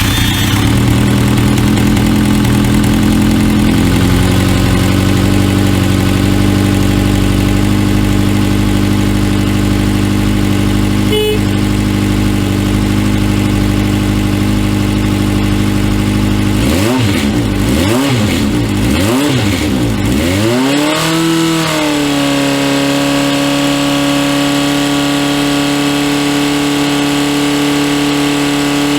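Honda CBX400F's air-cooled 400 cc inline-four engine idling steadily, then revved in about four quick throttle blips about two-thirds of the way through, before settling back to a steady idle.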